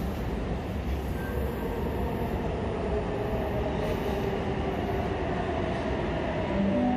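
Electric suburban train approaching through the tunnel into an underground station: a steady low rumble with a faint whine that drops slightly in pitch as it slows.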